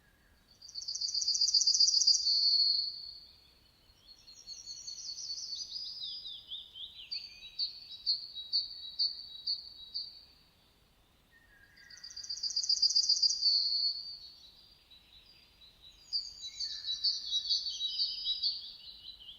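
A songbird singing high, rapid phrases a few seconds long with short pauses between; in the middle one phrase turns into a run of repeated notes at about two a second.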